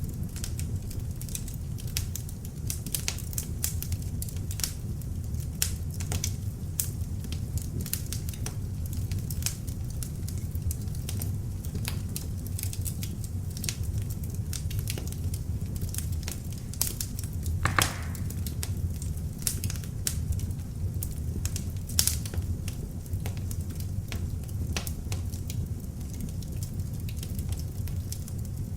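Beech logs burning in an open fireplace: a steady low rush of flame under frequent sharp crackles and pops. A louder pop comes about eighteen seconds in and another a few seconds later.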